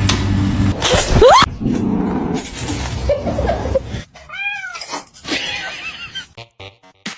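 A domestic cat yowling and meowing: a rising yowl about a second in, then a drawn-out meow that rises and falls in pitch about four seconds in.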